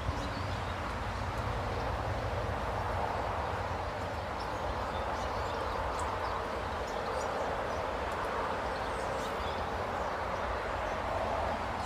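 Small birds giving short, scattered high chirps over a steady background rumble and hiss.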